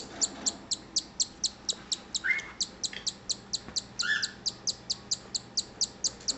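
Newly hatched cockatiel chick's food-begging cheeps: short high chirps repeated rapidly and evenly, about four a second, with a couple of lower, longer notes mixed in.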